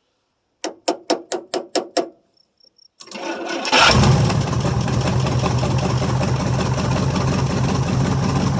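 1973 International 1210's 345 V8 cranking in a short run of seven even pulses, pausing, then catching about three seconds in and settling into a steady run, with its ignition coil fed directly from the battery by a jumper cable.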